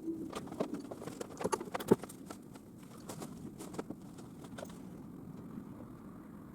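A run of irregular knocks and clanks, the sharpest about two seconds in, fading out after about four and a half seconds into a low steady background noise.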